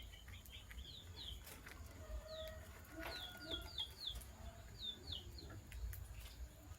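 Lovebirds chirping: many short, high chirps that slide downward in pitch, coming singly and in quick runs of two to four.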